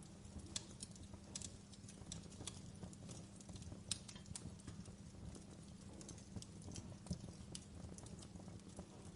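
Wood fire crackling in a fireplace: irregular sharp pops and snaps, a few each second, over a steady low rumble of the burning.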